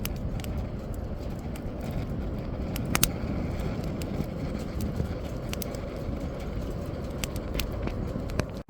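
Wood fire crackling, with frequent sharp pops and snaps, the loudest about three seconds in, over a steady low rush.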